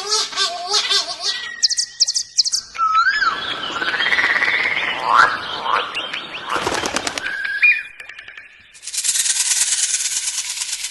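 A run of different bird calls, one after another: quick chirps and whistles, then a rough, noisy stretch with gliding calls and a rattle, a short whistle, and a fast buzzing trill near the end.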